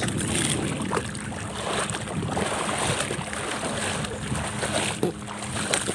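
Strong wind blowing over the microphone, a steady rushing noise with a faint low hum and a few small knocks.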